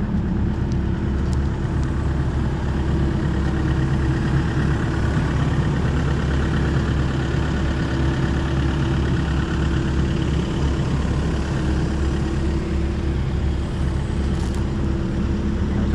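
Hitachi 135 excavator's diesel engine idling steadily, a nice and quiet low hum with an even tone.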